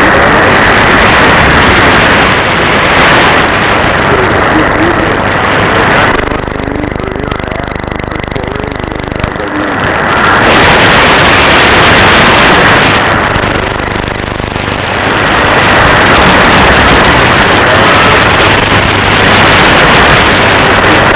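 Shortwave receiver audio full of dense static and impulse interference, cut off sharply above the receiver's audio passband. The noise drops back twice for a few seconds before returning.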